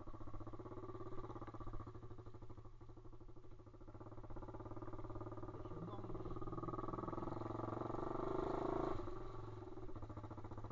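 Pit bike's single-cylinder engine running under way, building up from about four seconds in and dropping back sharply a little before the end.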